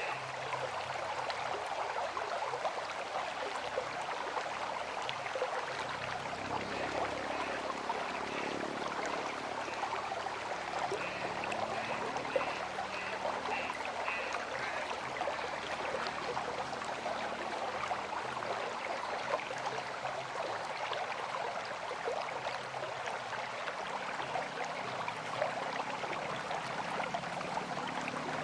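River water flowing steadily in a continuous, even rush.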